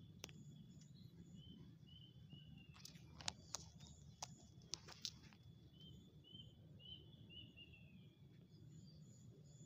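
A small bird chirping faintly in two runs of short, quick falling notes, over a low steady rumble. A handful of sharp clicks come through in the middle and are the loudest sounds.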